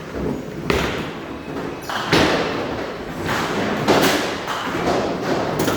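Bowling alley thuds and clatter: about four heavy thumps of bowling balls and pins in quick succession.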